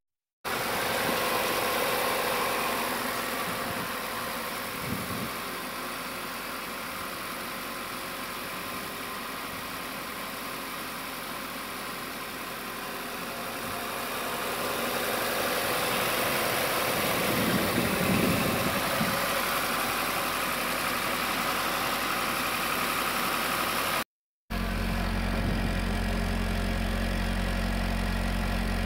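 Naturally aspirated Nissan S13 Silvia engine running through its stock muffler, rising and falling in level, then after a brief cut about 24 seconds in, settling into a steady idle.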